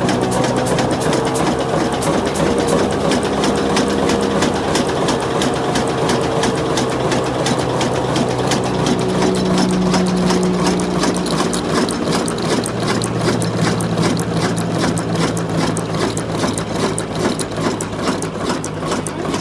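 Old diesel engine running steadily, with a fast, even mechanical clatter.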